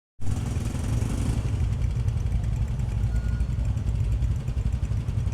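Small Chinese single-cylinder motorcycle engine idling with a steady low rumble. It starts abruptly, with a little extra hiss in the first second.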